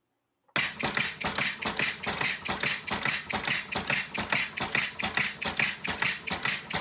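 Homemade compressed-air engine built from an old Schwinn bicycle pump, running: a rapid, even clatter with puffs of exhausting air, about four to five beats a second, starting about half a second in.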